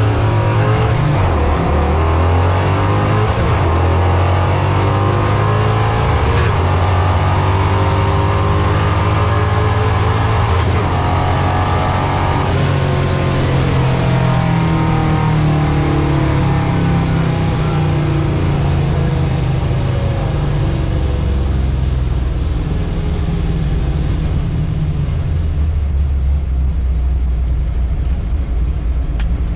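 The engine of a Chevrolet Nova drag car running loudly and without a break, its pitch drifting up and down as the revs change.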